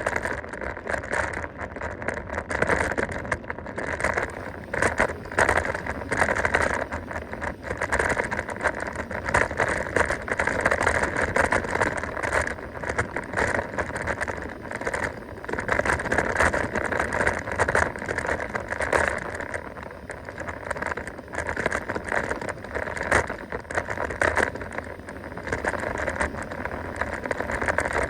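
Mountain bike descending fast on a rough dirt track: continuous tyre noise over dirt and stones, with frequent knocks and rattles from the bike over bumps.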